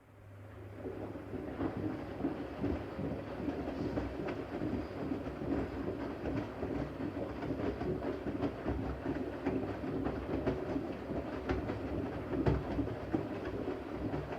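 Siemens Siwamat iQ 716 washing machine turning its drum in the wash phase: a steady motor hum with a rattling churn of the load, starting at once and stopping near the end, as the drum reverses or pauses between turns.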